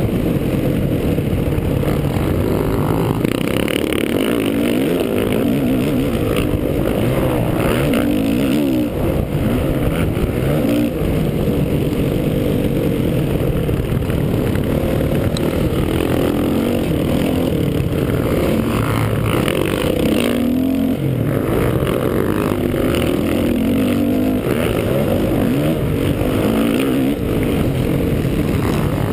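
Honda 450 motocross bike's single-cylinder four-stroke engine running hard, its pitch repeatedly rising and falling as the throttle is opened and closed, heard up close from the bike.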